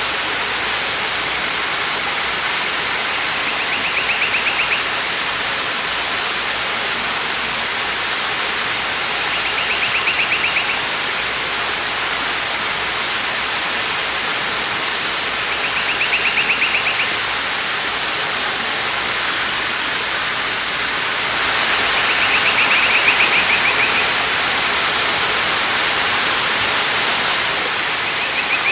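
Waterfall rushing steadily, swelling somewhat louder about three-quarters of the way through. Over it a short, rapid high trill about a second long repeats roughly every six seconds.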